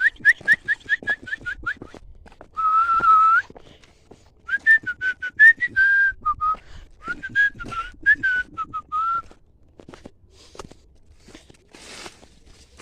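A person whistling a short tune: quick repeated notes, one held breathy note, then a wavering melody that stops a few seconds before the end. Sharp clicks and snaps run through it.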